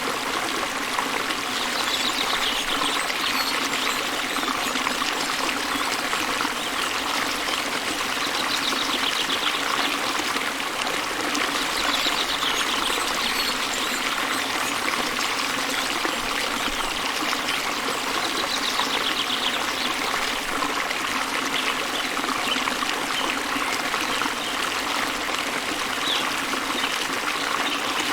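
A small waterfall spills into a river, making a steady rush and babble of running water. A bird sings faintly a few times over it.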